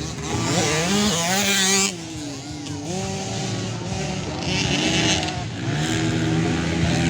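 Several 50cc motocross bikes with engines revving, their pitch climbing and dropping, louder in the first two seconds and then running on more steadily.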